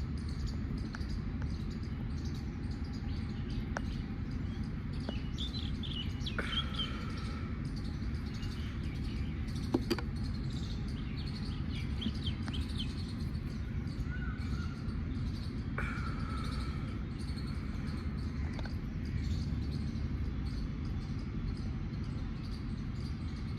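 Small birds chirping in short, scattered calls over a steady low rumble, with a few sharp clicks, the loudest about ten seconds in.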